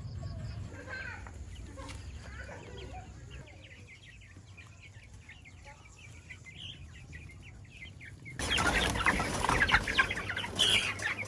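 Chickens clucking and cheeping in short, scattered calls, then, about eight seconds in, a louder noisy flurry of wing-flapping and rustling that lasts to the end.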